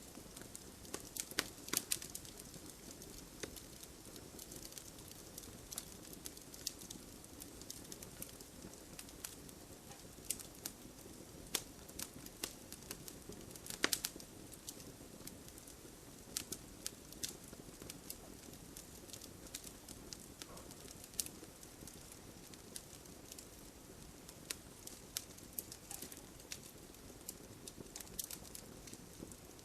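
Wood fire burning in a fireplace, crackling with irregular sharp pops over a soft steady rustle of flames; one louder pop comes about halfway through.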